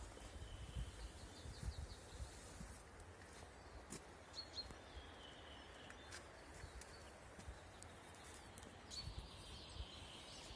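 Faint outdoor ambience: birds chirping intermittently over a low, uneven rumble, with a few scattered clicks.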